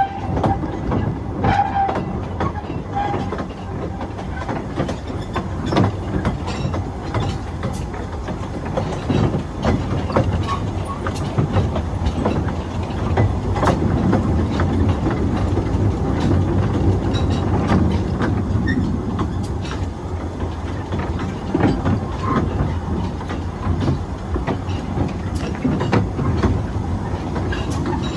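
Narrow-gauge train hauled by a Hunslet 50 hp 0-4-0 locomotive, heard from an open carriage: a steady running rumble of wheels on track with irregular clicks and knocks over the rail joints.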